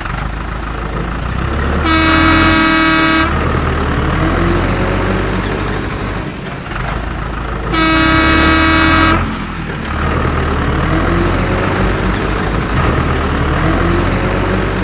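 Motor vehicle engine running steadily, with two long horn honks: one about two seconds in and another about eight seconds in, each lasting over a second. After each honk the engine's pitch slowly rises.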